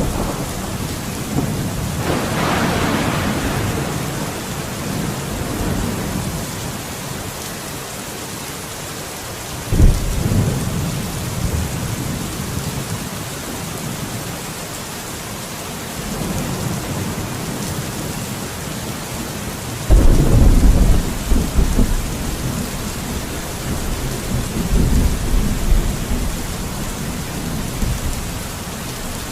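Steady rain with thunder rolling over it: a rumble about two seconds in, a sudden clap near ten seconds, and a long, loud rumble starting about twenty seconds in.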